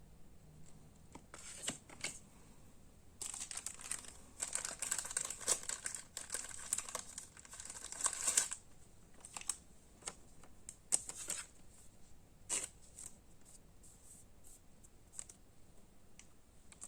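Crinkly plastic or foil wrapping on Pokémon card packaging being torn open and crumpled, in a dense stretch of crackling through the first half, then sparse short rustles and clicks as the contents are handled.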